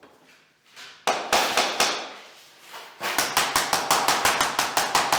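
A few sharp knocks about a second in, then from about three seconds a fast, even run of knocks, about five a second, typical of vinyl click flooring planks being tapped into place.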